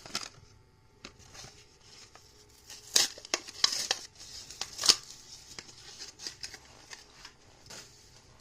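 Packaging of a diecast toy car being cut and torn open: sharp snips and crinkling of plastic and card, loudest about three and five seconds in.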